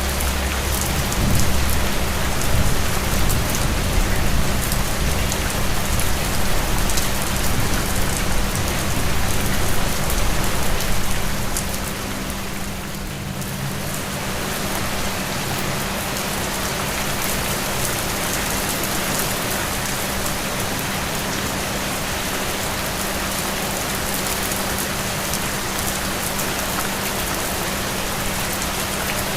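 Steady, heavy rain falling, a dense even hiss. A low rumble runs under it for about the first ten seconds, then fades out.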